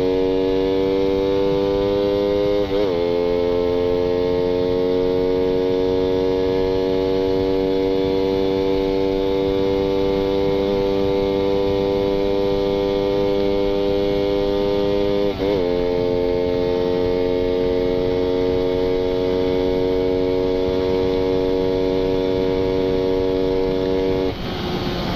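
Suzuki Satria FU 150's carburetted single-cylinder four-stroke engine on stock exhaust, held hard on the throttle with its pitch slowly climbing. The pitch dips sharply twice, about 3 and 15 seconds in, as gears are shifted up, and the throttle is shut near the end. Steady wind hiss.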